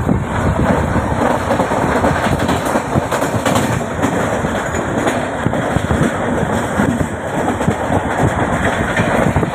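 Train running along the track: a steady, loud rumble of wheels on rails.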